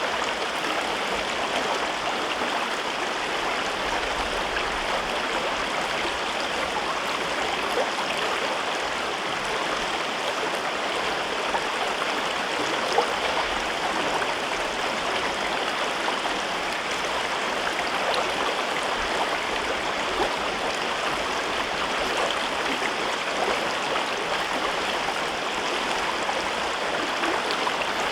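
River water rushing and babbling over rocks in a gorge, a steady flow with small splashes here and there.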